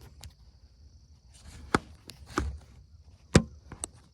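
About six sharp, irregular knocks and clicks of things being handled and set down on a wooden dock, the loudest a little over three seconds in.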